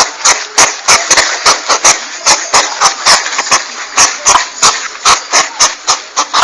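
Porcupine call recording played as a hunting lure: a rapid, uneven run of sharp clicks, about three to four a second, over a rasping hiss.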